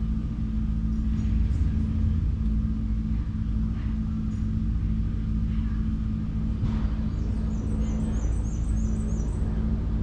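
A car engine idling steadily with a low rumble. Near the end there is a quick run of about eight high chirps.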